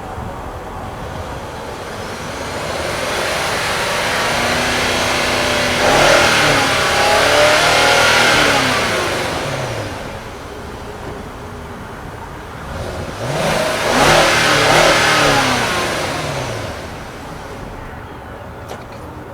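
A car engine rising and falling in two swells, each building and dying away over several seconds, with a hiss spread across the range.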